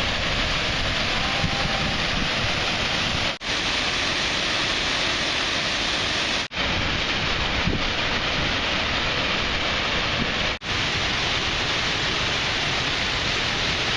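Waterfall rushing close by, a loud, steady rush of falling water. It cuts out for an instant three times.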